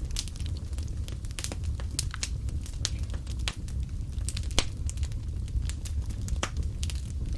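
Wood fire burning in a fireplace: a steady low rumble of the flames with irregular crackles and sharp pops, one louder pop a little past halfway.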